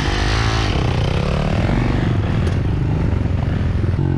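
Dirt bike engine running under way, its pitch rising and falling with the throttle for the first second or so, then holding steadier.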